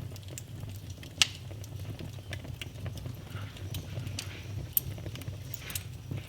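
Wood fire in a fireplace crackling: many small irregular snaps, two sharper pops about a second in and near the end, over a steady low rumble of the burning fire.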